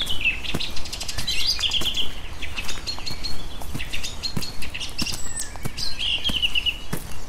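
Songbirds singing in short high chirps and trills, with a run of quick repeated notes about six seconds in, over a scatter of sharp taps.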